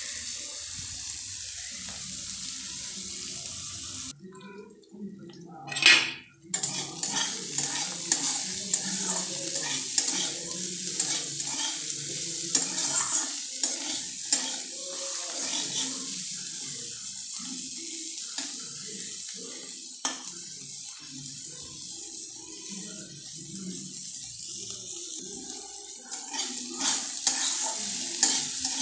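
Bitter gourd and pumpkin pieces sizzling in mustard oil in a metal kadai over a high gas flame, while a spatula stirs them and scrapes and clacks against the pan. They are being fried until reddish-brown. The sizzle drops out briefly about four seconds in, and a short loud sound follows near six seconds.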